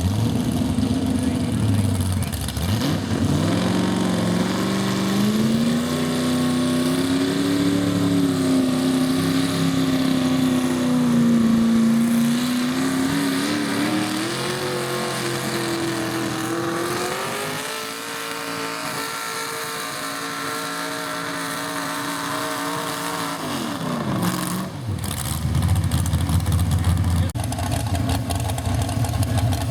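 Garden pulling tractor's engine revving up about two seconds in and running at high speed under load through a pull, its pitch wavering and climbing as it goes. About 24 seconds in it is throttled back and drops to idle.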